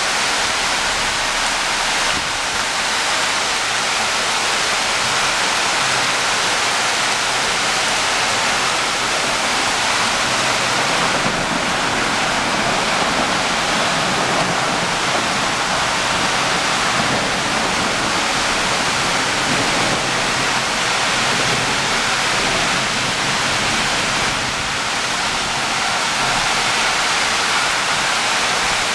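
Heavy rain pouring down steadily in a thunderstorm, a dense, even hiss.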